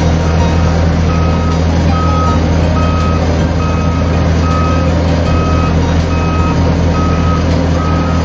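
A heavy vehicle's reversing alarm beeping at an even pace, about one beep every three-quarters of a second, over the steady low hum of its diesel engine running.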